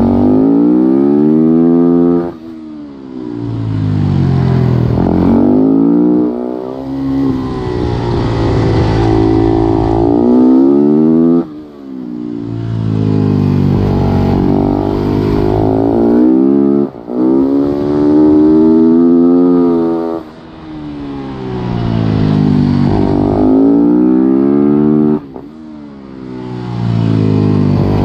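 Supermoto motorcycle engine at race pace, heard from on board. It revs up hard with its pitch climbing and dropping back at each gear change. It falls away sharply several times as the throttle is shut for corners.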